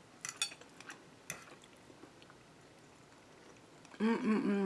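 A person tasting food: a few faint clicks of utensil or mouth, one about a second in. Then a short voiced sound from a woman near the end.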